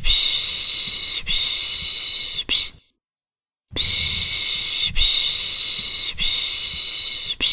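A person shushing a baby with long 'pış pış' hisses, each about a second long, in runs of three with a short one at the end. The runs are split by a full pause about three seconds in.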